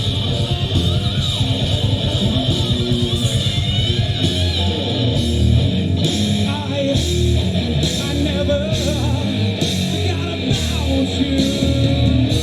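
Live rock band playing: strummed electric guitar over bass and drums, with evenly spaced drum and cymbal hits keeping the beat through the second half.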